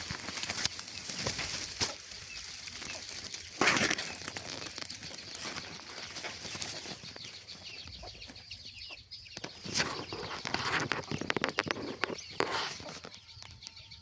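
Birds rustling and flapping their wings in irregular bursts, with a louder burst about four seconds in.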